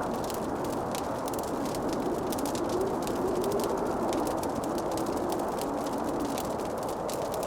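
Wood fire crackling in a fireplace: a dense run of small pops and snaps over a steady low rushing noise, with a faint wavering tone underneath through the middle.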